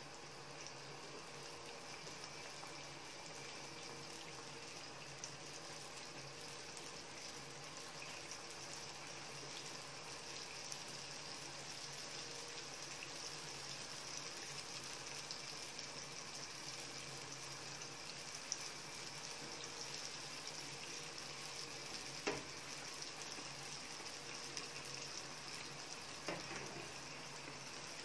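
Pinwheel bread (saga noti) dough rounds deep-frying in hot oil in a frying pan: a steady sizzle that grows slowly louder as more rounds go into the oil. A few light clicks sound in the second half.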